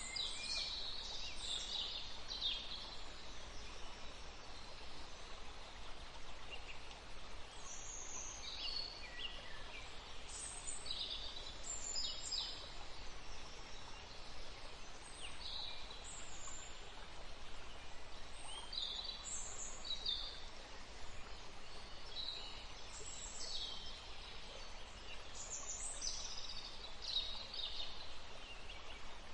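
Songbirds chirping and singing in short, high, quick phrases, scattered irregularly over a steady background hiss.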